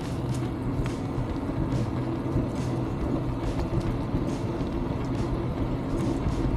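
Steady wind rumble on an action camera's microphone while cycling, with bicycle tyres rolling on the trail and faint scattered ticks.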